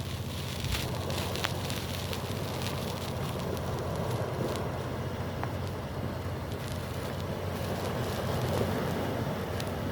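Steady beach ambience: wind buffeting the microphone over the wash of surf, with a few faint clicks.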